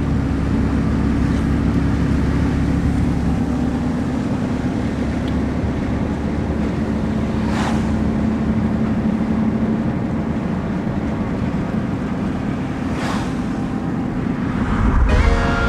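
A motor running steadily under way, with a heavy low rumble and a constant hum, like a vehicle or boat in motion.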